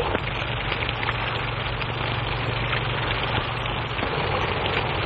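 Steady hiss and crackle of an early sound-film soundtrack, with scattered small clicks and a low hum that fades about four seconds in.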